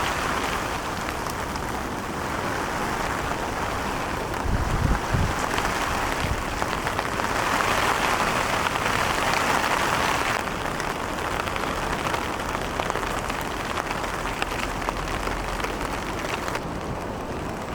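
Ocean surf: breaking waves and rushing whitewater making a steady hiss that swells twice and eases again, with a brief low thump about five seconds in.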